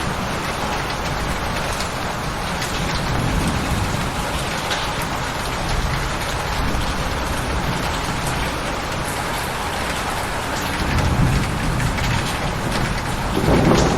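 Steady rain falling on a surface. A low rumble of thunder swells near the end.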